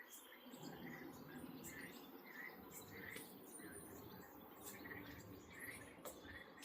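Faint outdoor nature ambience. A small creature chirps over and over, about two to three times a second, over a low steady rumble that comes in about half a second in.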